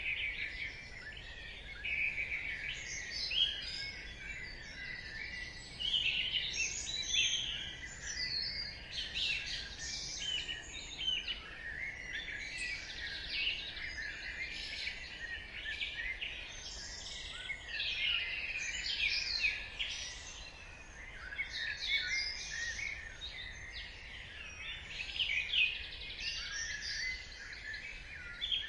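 Dawn chorus: many songbirds singing and chirping at once, their short overlapping phrases continuous, over a faint low background hum.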